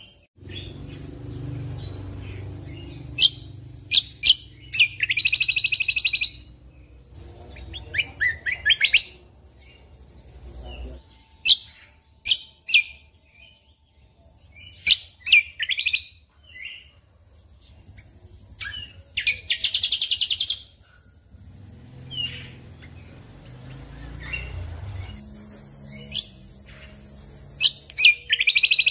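Cucak kombo (kecial kombok) songbird singing in bursts: fast trills about a second long, mixed with short sharp chirps. A low rumble of background noise sits under the song through the first third and again near the end.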